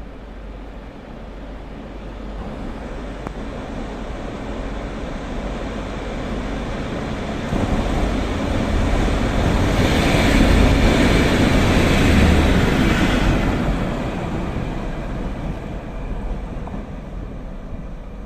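A train passing by: a steady rumbling noise that builds, is loudest about ten to thirteen seconds in, then fades away.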